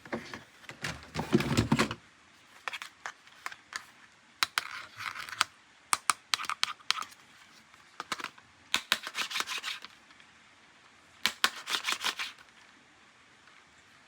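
Hands unboxing plastic toys: bursts of crinkling plastic packaging, about four of them, with sharp plastic clicks and taps in between.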